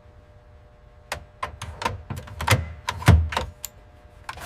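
An irregular run of about a dozen sharp knocks and clicks, starting about a second in, the loudest a heavier thud near three seconds, over a faint steady hum: hardware and tooling knocking during assembly work.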